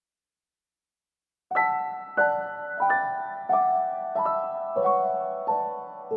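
Silence, then about a second and a half in, piano music begins, with notes or chords struck roughly every two-thirds of a second, each ringing on as it fades.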